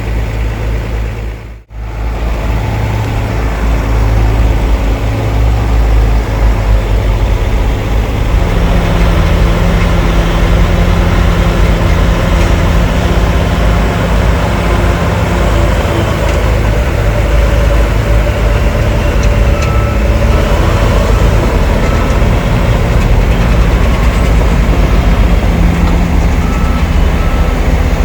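Heavy diesel earthmoving machinery running under load: bulldozer and dump truck engines working together, a deep steady engine sound with a steadier hum settling in after several seconds. Short repeated beeps sound faintly in the second half.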